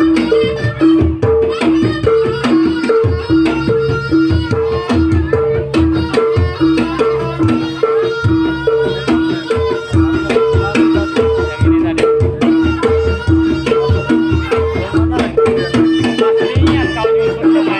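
Javanese jaranan (kuda lumping) ensemble music playing continuously. Kendang hand drums beat densely under a steady two-note gong-chime figure alternating high and low, with a reed melody above, likely a slompret.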